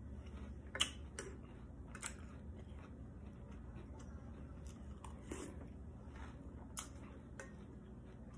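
A person chewing a mouthful of Drumstick cereal in milk, with a few sharp crunches or clicks scattered through it.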